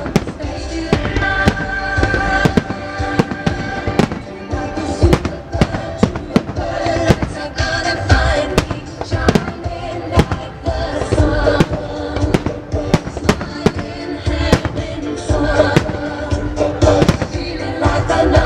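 Fireworks bursting in rapid, irregular bangs, many per second at times, over loud show music played along with the display.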